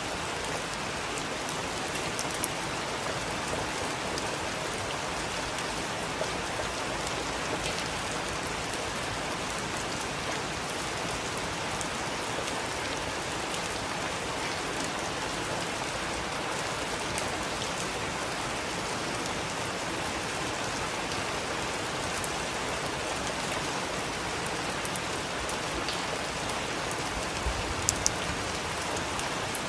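Heavy rain falling steadily, with a few sharp ticks standing out, two close together near the end.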